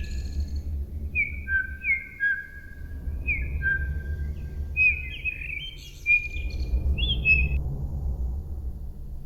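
Birdsong: short, repeated whistled chirps over a steady low rumble. The chirping stops about three-quarters of the way through.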